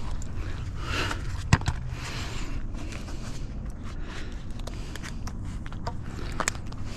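Scrap being handled and shifted: scraping and rustling with a sharp knock about a second and a half in and another near the end, over a steady low rumble.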